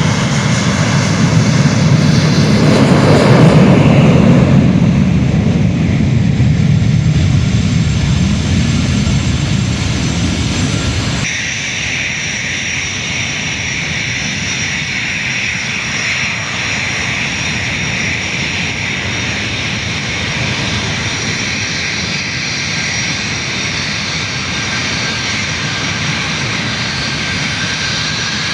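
Boeing jet airliner engines at takeoff power. A loud, heavy rumble swells over the first few seconds, then cuts off abruptly about eleven seconds in. After that a steady, high engine whine runs on.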